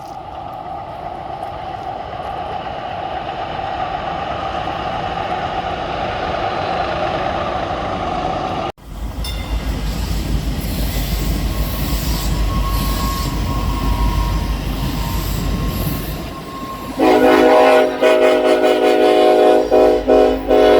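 DART trains: a train approaching with a rising rumble. After a cut, a train rumbling past with a brief high squeal. Near the end comes a loud train horn sounded in several blasts with short gaps between them.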